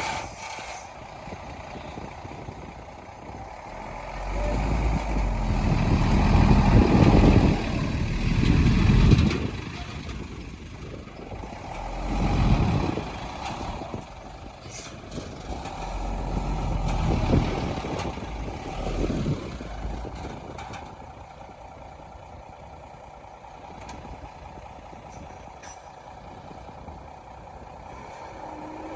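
Heavy diesel earthmoving machinery working: a steady engine drone that surges loudly under load several times, the longest surge from about 4 to 10 seconds in, with shorter ones around 12 seconds and from 16 to 20 seconds.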